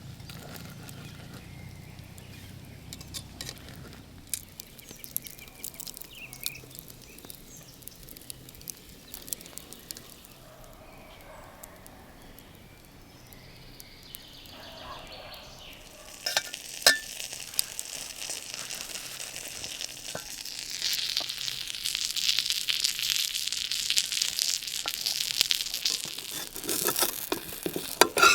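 Food sizzling in a frying pan over a campfire, with scattered crackles. It is quiet at first, then swells from about halfway through into a loud, steady sizzle with dense crackling near the end.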